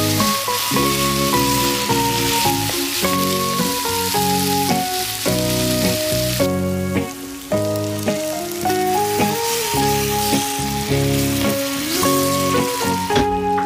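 Ground meat and onion sizzling as they fry in a pan, stirred with a spatula, under background music with a melody. The sizzle drops out briefly about six and a half seconds in.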